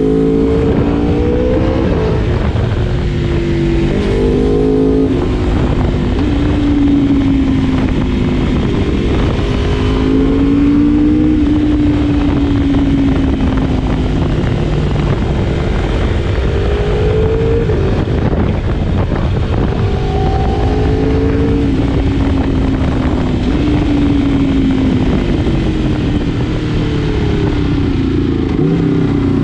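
Sport motorcycle engine under way, its pitch rising and falling with the throttle and breaking off several times at gear changes, over a steady rushing noise.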